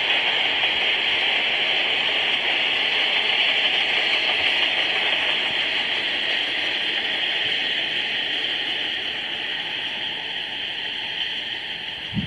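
Passing train's wheels running on the rails: a steady rushing rumble that slowly fades as the last cars clear the crossing. A short low thump comes near the end.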